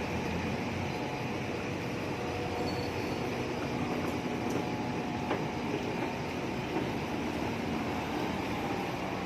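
Steady hum of street traffic and machinery, with a few faint steady tones and no distinct events.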